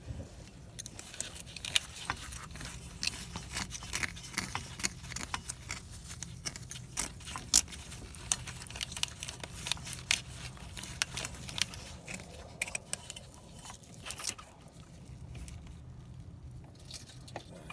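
Hand tool scraping and picking hard carbon deposits off an engine's intake valve: a quick, irregular run of small scratches and clicks that thins out near the end, over a steady low hum. The thick carbon build-up is what the mechanic blames for the engine's rough idle.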